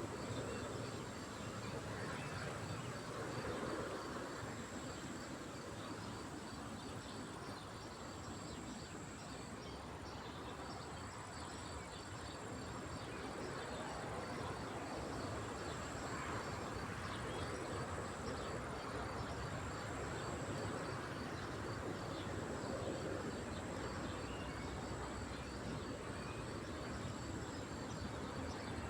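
Lakeside nature ambience: a steady, high-pitched insect trill with a fast, even ticking beneath it, over a constant background hiss.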